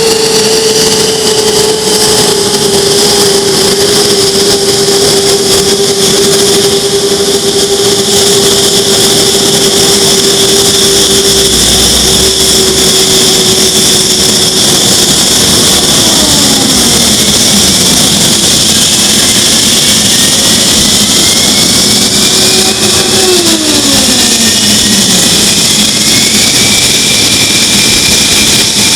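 F-15 fighter's twin jet engines running during engine start, a loud, steady turbine whine. Twice, about halfway through and again later, a low tone slides down while a high whine climbs in pitch.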